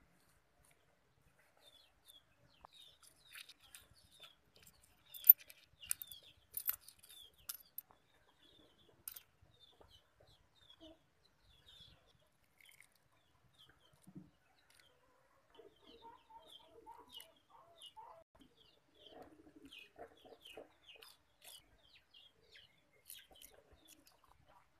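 Fowl calling: short high peeps repeat throughout, with lower clucking calls through the middle and a few sharp clicks in the first third.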